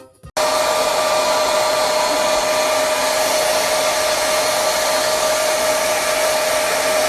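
Steady whooshing hiss of a small motor-driven blower with a faint steady whine in it, starting suddenly about a third of a second in.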